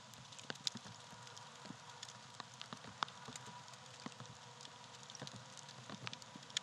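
Campfire of dry tree bark burning, with irregular crackles and pops over a soft hiss; one sharper pop about three seconds in.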